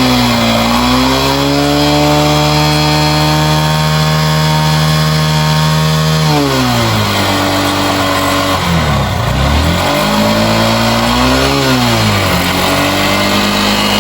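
Motorcycle engine revving in neutral: held at raised revs for about six seconds, let back down, blipped up again and settled. It is being revved to check whether the charging system brings the battery voltage up.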